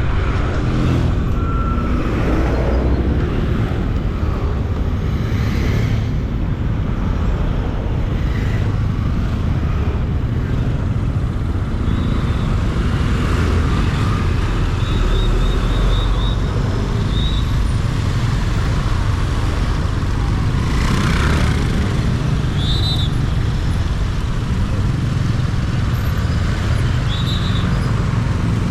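Benelli 150i motorcycle riding through city traffic: a steady low engine rumble with street traffic around it, and a few short high-pitched beeps about halfway through and again near the end.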